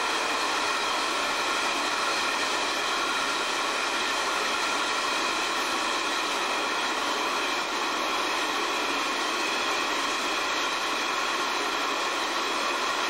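Hopper wagons of a long coal train rolling steadily past, a continuous running noise with a steady whine of several held tones over it.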